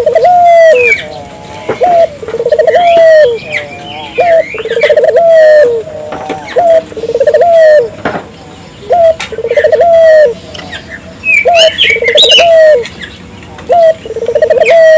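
Puter doves (Barbary doves) cooing over and over, each coo a short note followed by a longer quavering one, about every second and a half. Higher, sharp chirps of small birds sound in between.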